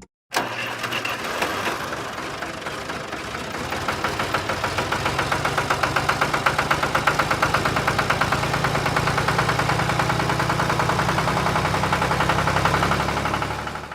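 An engine running at idle with a rapid, even knocking pulse of about six or seven beats a second, growing a little louder and more regular a few seconds in.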